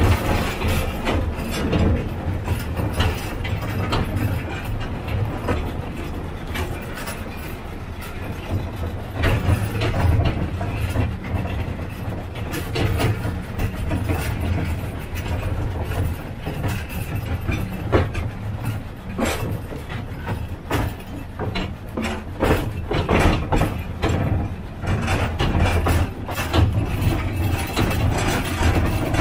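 Narrow-gauge field railway (Feldbahn) train running, heard from on board: a steady low drone with wagons rattling and wheels clicking irregularly over the track.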